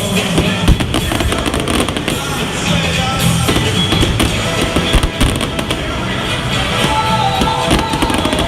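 Fireworks going off in rapid succession, many bangs and crackles, the sharpest about a second in and halfway through, over music playing along with the show.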